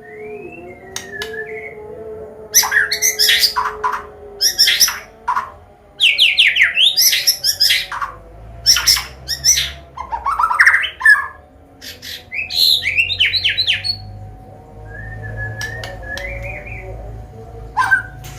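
White-rumped shama (Medan murai batu) singing a varied combination song: loud bursts of rapid sweeping notes broken by short pauses, with softer whistled notes at the start and near the end.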